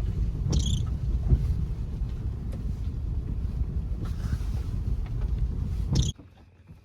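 Car driving slowly on a slippery, muddy dirt road, heard from inside the cabin: a steady low rumble with a few sharp knocks and clicks. It cuts off suddenly about six seconds in.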